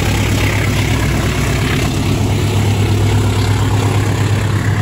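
Diesel-hauled passenger train running past close by: a steady low diesel drone over the even rumble of the cars on the track.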